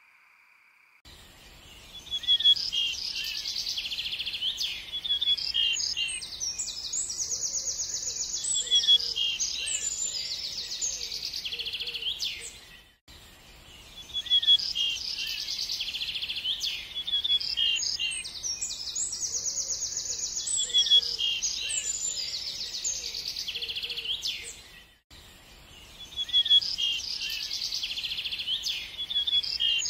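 Birdsong of many chirps and trills from several small birds, starting about a second in. It is a recording that loops about every twelve seconds, with a brief dropout at each repeat.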